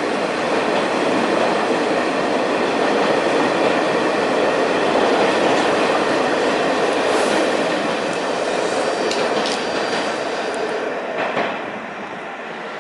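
New York City subway train running on the tracks, wheels clattering, with a few sharp clicks and a brief thin squeal in the second half. The sound drops off suddenly about eleven and a half seconds in.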